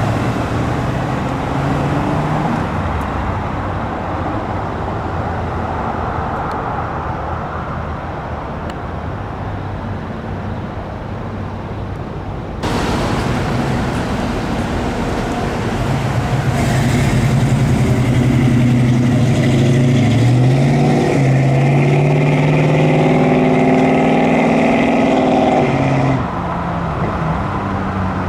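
Car engines running, with an abrupt change of sound about halfway through. Near the end one engine runs louder and its pitch rises steadily for several seconds as it accelerates, then the sound drops suddenly.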